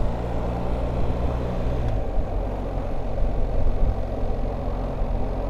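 BMW R1300GS boxer-twin engine running, with a steady note that changes about two seconds in.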